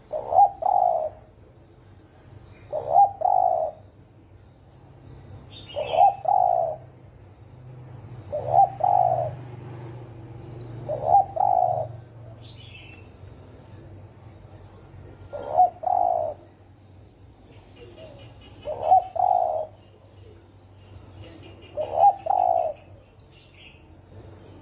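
Spotted dove cooing: a low-voiced male repeating his short cooing phrase eight times, about every three seconds. Faint chirps and trills of small birds come in between the calls.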